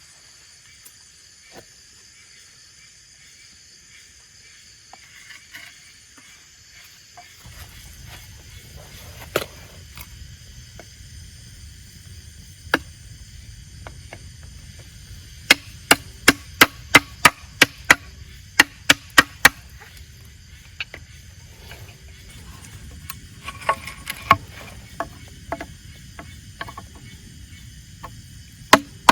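Chopping wood with a blade: sharp strikes into the wood, a few scattered at first, then a quick run of about three a second through the middle of the stretch, with more strikes later on.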